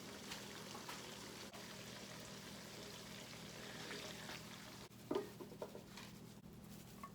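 Chicken karahi sizzling quietly in the pan as it finishes cooking, with a few light clicks and a louder knock about five seconds in.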